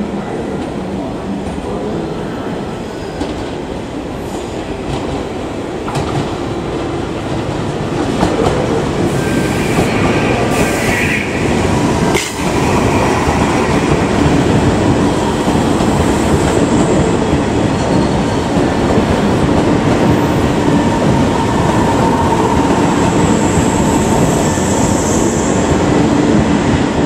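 A JR 381 series limited express electric train approaching at low speed and running close past, its wheels clicking over points and rail joints. The running noise grows about six seconds in and gets louder again from about twelve seconds, as the cars go by close up, and stays steady through the rest of the passing.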